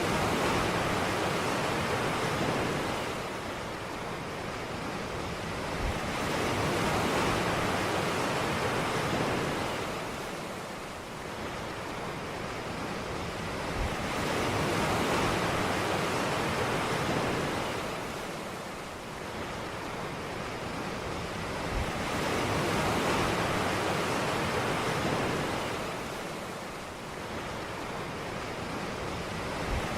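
Ocean surf on a beach, waves washing in and drawing back, the rush swelling and fading about every eight seconds.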